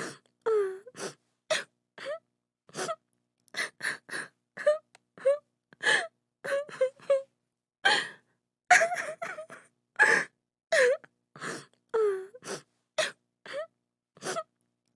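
A woman crying: short gasping sobs and wailing cries, many a second or less long, several falling in pitch, with breaks between them.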